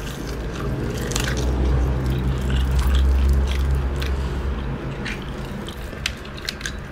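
Crunching and chewing of crispy Korean-style fried chicken, a string of irregular crackly bites over a low rumble.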